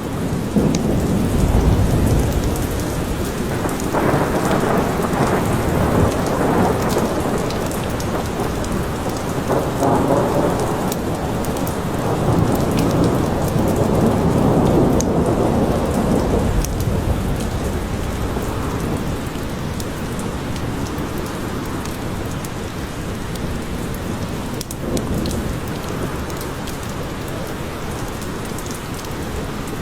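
Steady heavy rain falling in a forest, with long rolling thunder rumbling in swells through the first half that dies away, leaving the even patter of rain.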